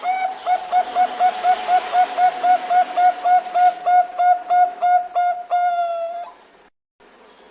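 Zebra dove (Bangkok perkutut) cooing: a fast run of short, clipped coo notes, about four to five a second, ending in one longer drawn-out note that cuts off suddenly.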